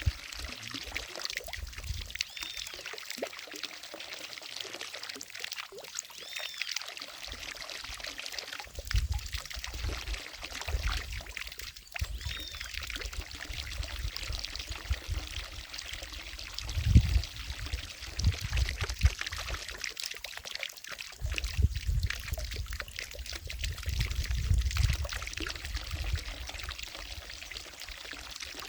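Water falling steadily from a fountain into a lake, a continuous pouring splash, with low rumbling surges coming and going underneath, the strongest about two-thirds of the way through.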